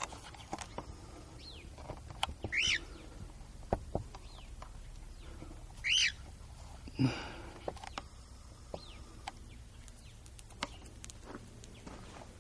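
Cockatiel chirping: two loud, sharp chirps about three and a half seconds apart, with fainter chirps and scattered small clicks in between.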